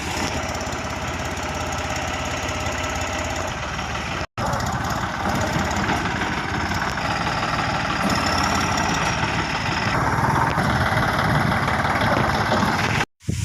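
Massey Ferguson 9500 Smart Series tractor's diesel engine running steadily at low revs, cut off briefly twice.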